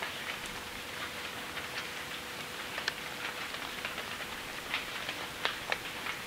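Steady hiss of rain falling on a wet path, with scattered sharp ticks at irregular intervals.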